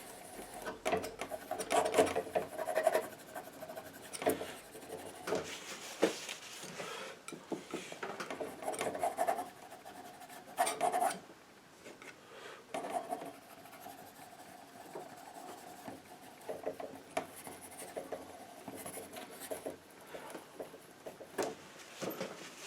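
Palette knife scraping and smearing paint across the painting surface in short, irregular strokes with brief pauses between them.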